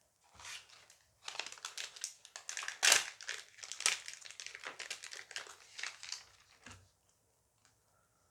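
Foil booster pack wrapper crinkling and crackling as it is torn and worked open, with a loudest snap about three seconds in; it stops about a second before the end.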